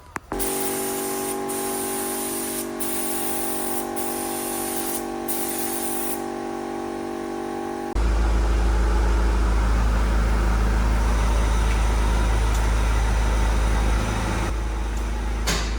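A steady machine hum with a high hiss of air or spray that breaks off briefly several times, then a sudden change about eight seconds in to a loud, deep rumble.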